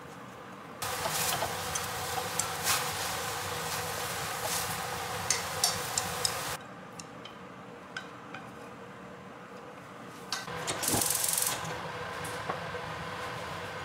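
Beef strips stir-frying in a hot wok: a steady sizzle with the clicks and scrapes of chopsticks against the pan, lasting until about six and a half seconds in. After a quieter stretch with a few clicks, there is a brief, louder hiss of sizzling about eleven seconds in, as liquid sauce hits the hot pan.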